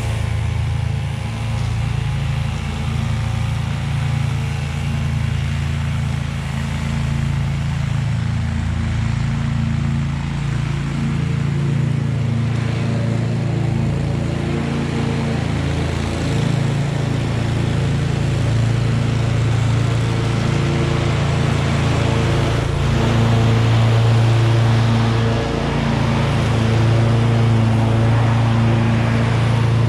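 Husqvarna V554 stand-on zero-turn mower running under load while mowing, its engine a steady drone that gets slightly louder about two-thirds of the way through.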